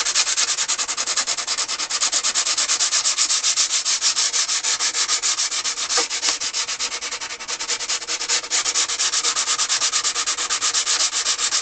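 Hand sanding with 180-grit sandpaper: rapid, even back-and-forth strokes scraping old glue off the accordion's body where its celluloid trim will be re-glued.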